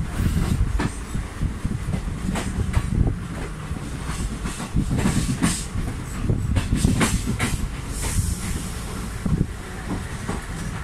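Train running, heard from a coach window: a steady low rumble of wheels on the rails, broken by irregular sharp clacks.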